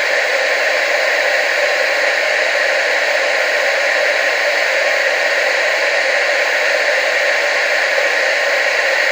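Television static: a steady, even hiss that does not change, strongest in the middle and upper range with little bass.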